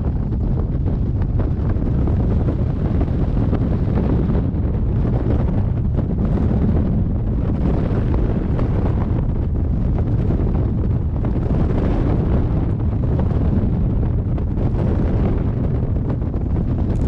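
Steady, loud wind rush buffeting a GoPro's microphone from the airflow of a hang glider in flight, heaviest in the low rumble, with no breaks.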